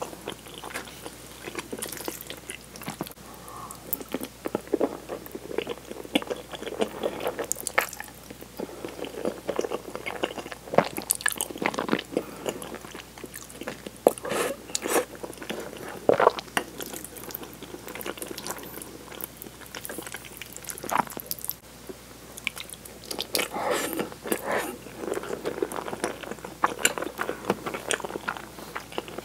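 Close-miked chewing of spaghetti in tomato cream sauce: wet mouth smacks and clicks in uneven clusters.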